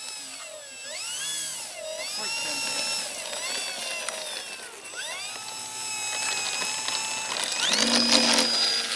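Electric RC model plane's motor and propeller whining, the pitch rising and falling repeatedly as the throttle is worked. There is a louder rushing swell about eight seconds in.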